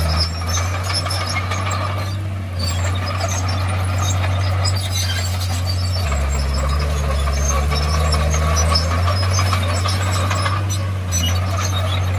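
Crawler bulldozer's diesel engine running steadily, with a scatter of metallic clatter over it; the engine note shifts about six seconds in.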